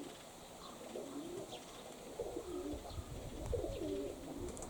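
Domestic pigeons cooing, several low warbling coo phrases one after another.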